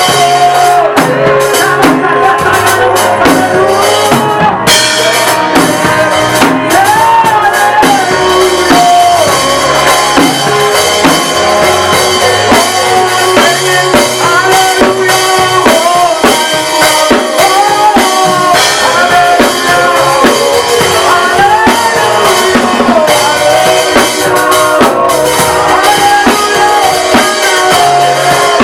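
Church worship band playing a steady song: drum kit and bass under a sung melody.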